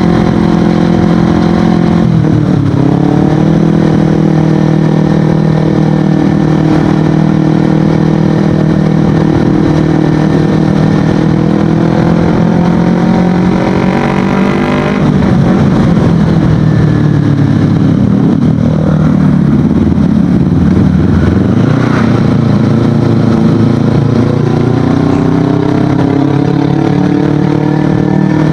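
Kawasaki Ninja 250FI's parallel-twin engine running through an Akrapovic aftermarket exhaust while riding. The engine note holds fairly steady, dips briefly about two seconds in, climbs and then drops sharply about halfway through, dips again later, and rises over the last several seconds.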